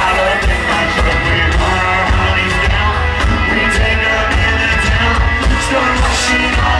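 Live country band playing loudly at a concert, with a steady heavy beat and guitars.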